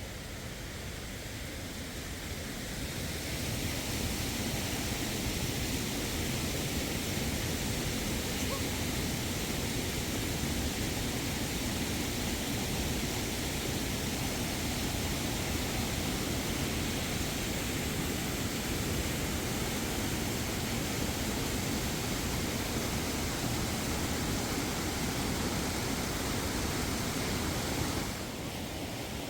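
Steady rushing of falling water, an even roar that swells over the first few seconds and drops off suddenly near the end.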